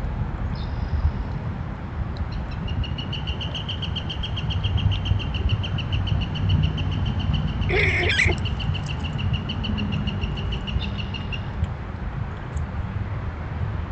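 A bird giving one long, even, high trill that lasts about nine seconds, over a steady low background rumble. A short high note comes just before it, and a brief harsh burst cuts across the trill about eight seconds in.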